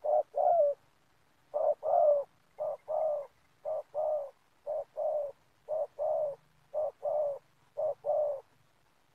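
Spotted dove (tekukur) cooing over and over, close and loud: each phrase is a short note followed by a longer, falling coo, repeated about once a second.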